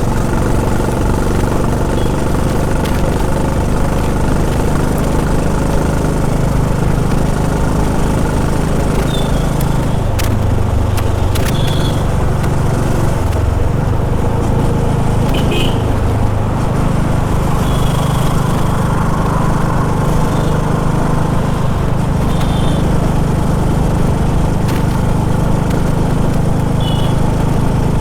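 Honda H'ness CB350's air-cooled single-cylinder engine running under way, its note changing between about ten and sixteen seconds in as the revs rise and fall. A few short high-pitched chirps sound now and then.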